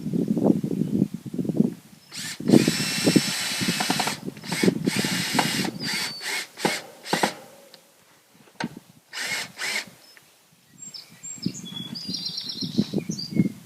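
Power drill driving screws, running in a string of short bursts with a high motor whine, then two more brief bursts near the middle. Crackly rustling comes before and after the drilling.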